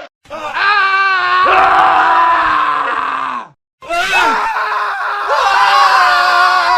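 Men screaming in a montage of separate screams cut together: a long scream that sags in pitch at its end, a brief dead silence about three and a half seconds in, then more screaming.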